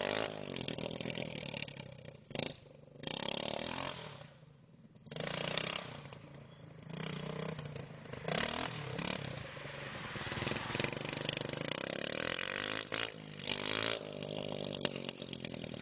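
Kawasaki fitted with a Honda 200X single-cylinder engine being ridden, its engine revving up and down as the throttle opens and closes. It drops back briefly twice in the first five seconds before pulling again.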